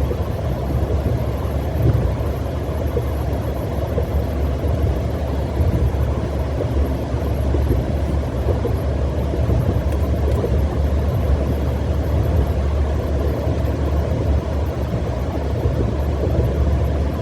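Steady cabin noise of a car driving at highway speed: a constant low rumble of tyres and engine.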